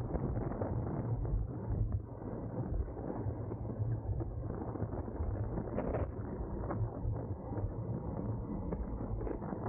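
Wind buffeting the microphone of a camera on a racing bicycle at speed, a steady low rumble with a couple of faint clicks.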